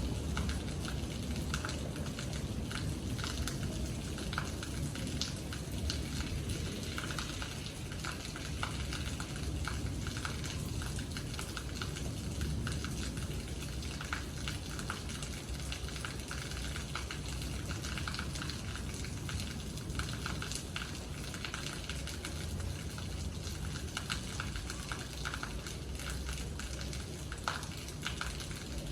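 Rain falling steadily, with many irregular individual drops pattering close by.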